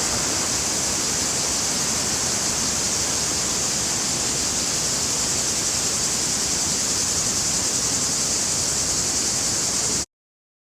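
Steady rush of the Krka waterfalls' cascading water, a constant even hiss that cuts off suddenly near the end.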